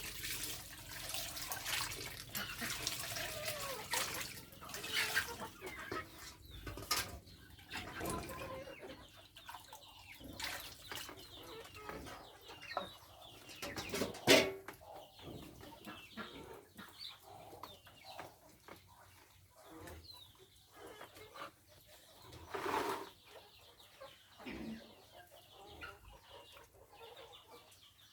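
Chickens clucking on and off, with a few sharp knocks, the loudest about halfway through. Running water for the first several seconds.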